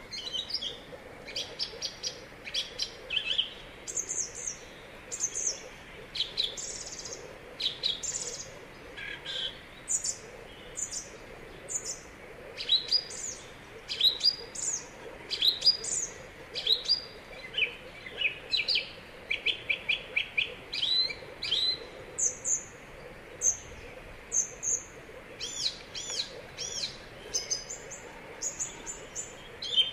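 Wild birds chirping and calling throughout: many short, high chirps and a run of quick repeated notes about two-thirds of the way through, over a steady faint background hiss.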